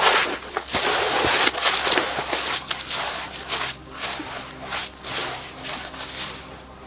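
Footsteps crunching through deep, thawing snow, one step after another, loud at first and growing fainter.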